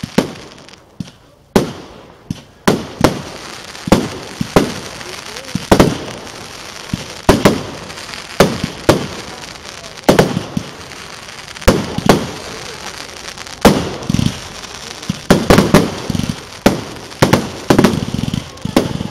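Aerial fireworks bursting overhead: a steady run of sharp bangs, roughly one a second, each with an echoing tail, bunching into a quicker volley near the end.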